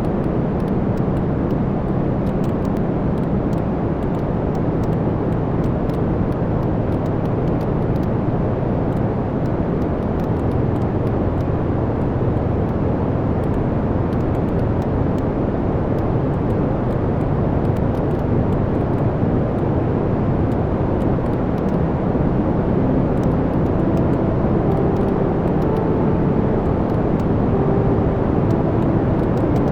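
Wood fire burning in a fireplace: a steady low roar of flames with scattered small crackles and pops from the logs.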